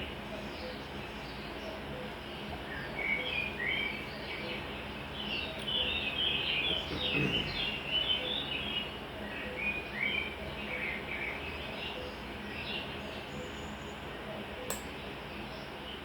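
Small birds chirping in quick runs of short chirps, busiest in the middle, over a steady low background hum, with one sharp click near the end.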